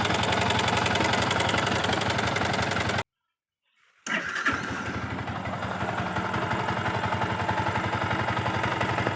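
Yamaha R15 V2 single-cylinder engine running at idle, with the new timing chain tensioner fitted and the earlier chain rattle gone. About three seconds in the sound cuts out for about a second, then the engine is heard running again.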